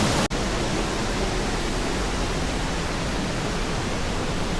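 Waterfall's steady rush of falling water, with a momentary break about a third of a second in.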